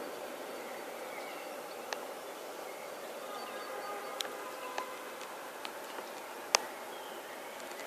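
Steady outdoor background noise with faint short chirps and a few sharp clicks, the loudest about two-thirds of the way through.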